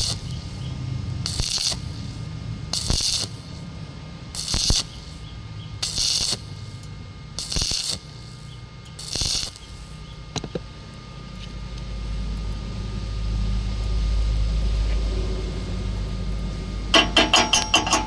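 Welding arc struck in short bursts of crackling hiss about every one and a half seconds, the stop-start stitch technique for not burning through thin pipe wall. After that comes a low rumble, and near the end a fast, even pulsing of about ten beats a second.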